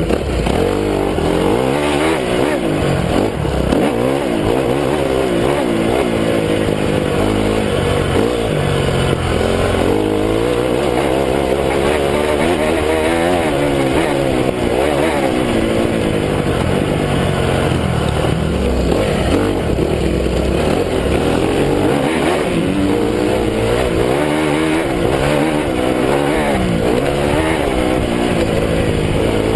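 Honda CRF250 motocross bike's four-stroke single-cylinder engine, revving up and down continuously as it is ridden hard through the track's sections.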